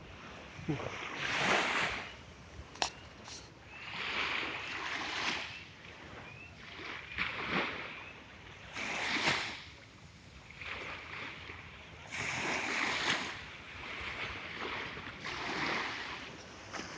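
Sea waves washing in, a rushing hiss that swells and fades every two to three seconds, with some wind. A single sharp click about three seconds in.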